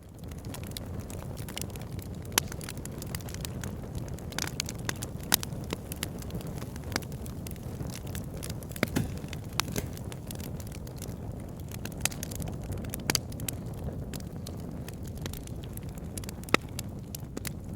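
Wood fire burning in a fireplace: a steady low rumble of flames with irregular crackles and pops from the burning logs, a few of them sharper, louder snaps.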